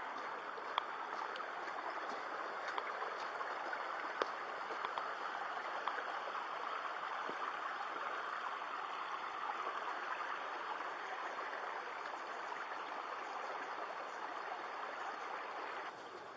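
A steady rush of flowing water, like a stream, with a few faint clicks over it; it drops away suddenly just before the end.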